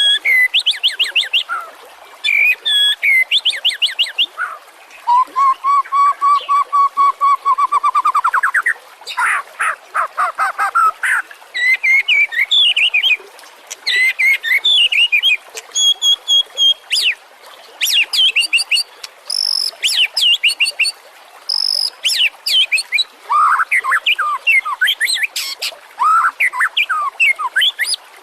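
White-rumped shama (murai batu) singing a varied, loud song in phrases with short pauses between them: fast trills, clear whistles, and one long run of even repeated notes that climbs in pitch at its end.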